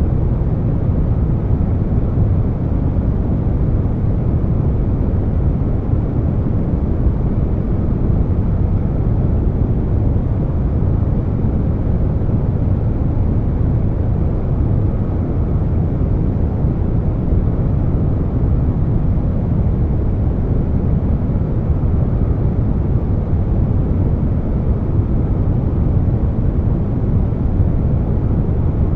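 Continuous air-conditioner noise blended with brown noise: a deep, even rush weighted heavily to the low end, with no hum tones, clicks or changes in level.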